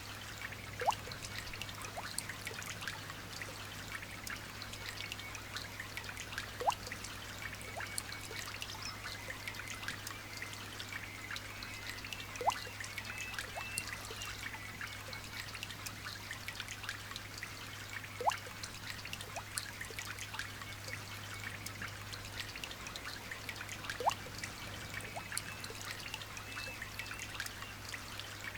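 Light rain dripping and trickling: many small drop ticks over a steady wash, with a sharper, louder drip about every six seconds. Faint bird chirping runs high in the background, over a low steady hum.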